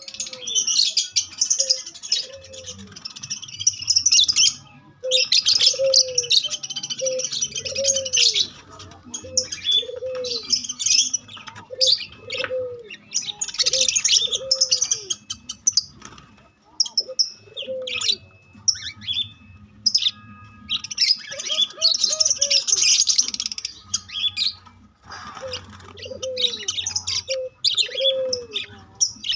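Several birds calling: bursts of dense, high chirping and twittering, over a run of short, low cooing notes repeated about once a second.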